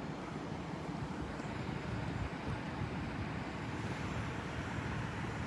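Steady low engine rumble of vehicles running at a roadside, with no distinct events.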